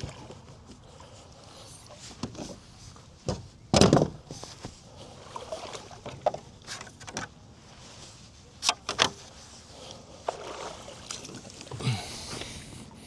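Scattered knocks and clunks on a fishing kayak as it is handled and launched, the loudest about four seconds in, with a quick pair near nine seconds.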